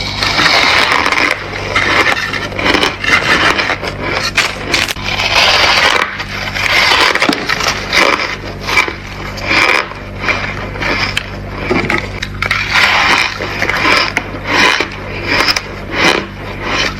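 Crunchy ice being bitten and chewed close to the microphone, a burst of crunching with sharp cracks about once a second.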